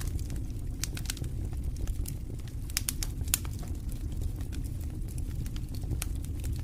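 Wood campfire crackling, with irregular sharp snaps and pops, several a second, over a steady low rumble.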